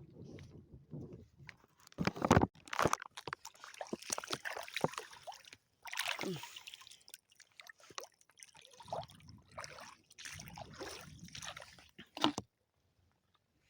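Shallow seawater sloshing and splashing in irregular bursts, the loudest about two seconds in; it cuts off suddenly about a second before the end.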